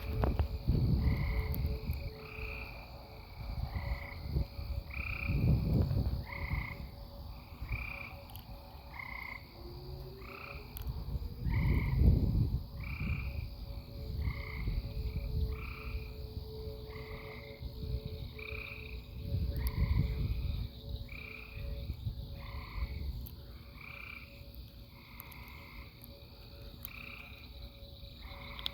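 Frogs calling, a repeated croak a little under once a second. Gusts of wind buffet the microphone several times, loudest about twelve seconds in.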